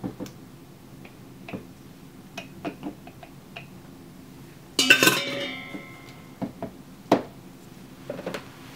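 Utensils and containers knocking and clinking, with one loud ringing clatter about five seconds in, like a metal tool set down hard against a bowl, and a sharp knock a couple of seconds later.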